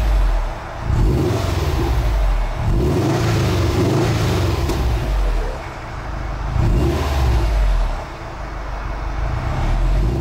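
A 2012 Subaru WRX's turbocharged flat-four engine being revved through its aftermarket exhaust: several blips that rise and fall back, with short lulls between them.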